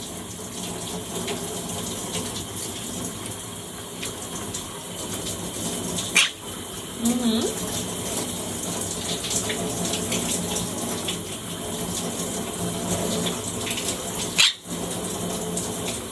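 A running shower: a steady spray of water, broken twice by a brief sharp click.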